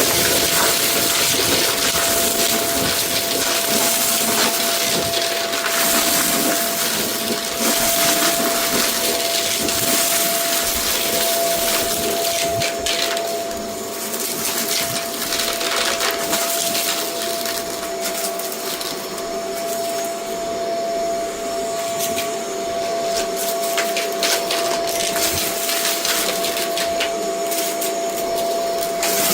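Vacuum cleaner running over a rug with a steady motor whine, sucking up debris mix that crackles and clicks through the hose; the suction noise eases and swells as it is pushed back and forth.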